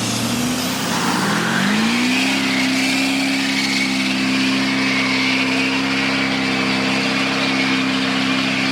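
A car engine revs up over the first two seconds, then is held steadily at high revs, with a steady, wavering tyre squeal above it: a burnout or drift.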